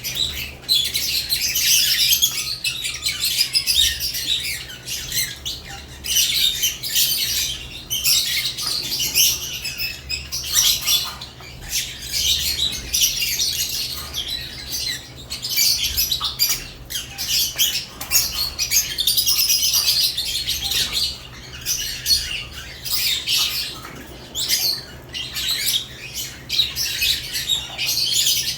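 Several caged lovebirds chattering in a near-constant stream of high, shrill chirps and squawks, over a steady low hum.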